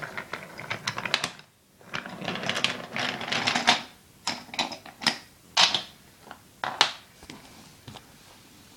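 Toy train models being handled on their track: a rapid clatter of small plastic clicks, a brief dead gap, then more clatter and single sharp clicks about half a second apart that die away near the end.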